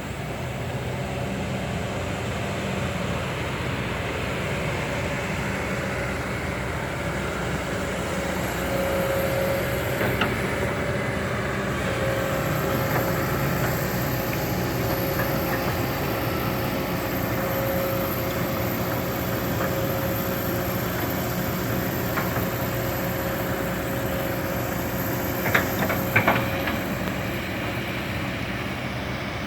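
Heavy diesel construction machinery running steadily, with a steady whine through most of it and a few sharp metallic knocks, a short cluster of them near the end.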